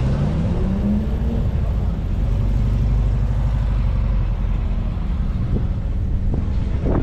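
Car engine accelerating, its pitch rising over the first second and a half, over a steady low engine rumble.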